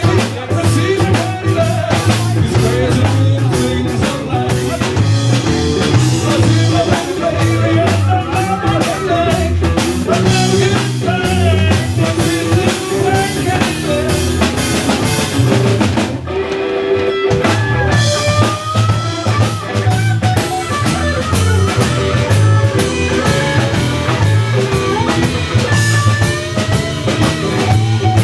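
Live Texas blues-rock trio playing loudly on electric guitar, bass and drum kit, with the lead guitar bending notes through an instrumental passage. The band drops out briefly a little past halfway, then comes back in.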